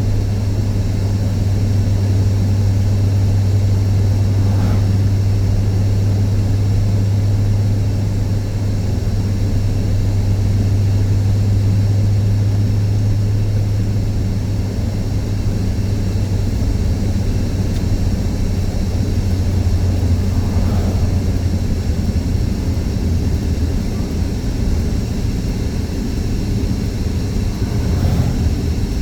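Steady low drone of a car's engine and road noise inside the moving car's cabin.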